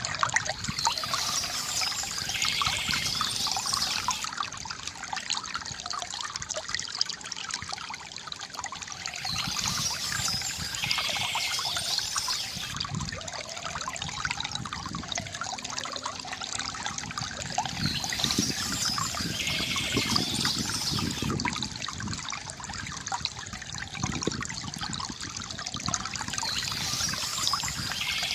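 Water trickling and splashing steadily from a bamboo fountain, with birds chirping in short bouts that come back about every eight and a half seconds.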